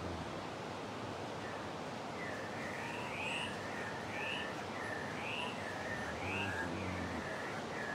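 A bird singing a string of clear whistled notes that rise and fall, one about every second, starting about two seconds in, over a steady rushing background hiss.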